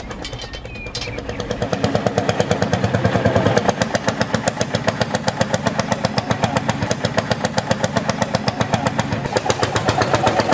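Small engine of a DIY mini tractor running with a fast, even firing beat. It picks up and steadies about two seconds in, then keeps a constant pace.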